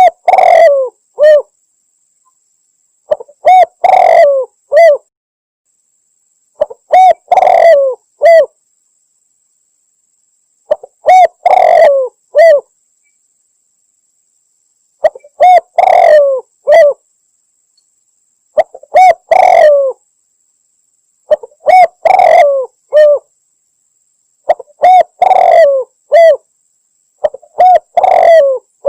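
Spotted dove (tekukur) cooing in repeated phrases about every three and a half seconds. Each phrase is a short run of coos ending in a falling note, on a recording used as a hunting lure call, presented as a female calling a male.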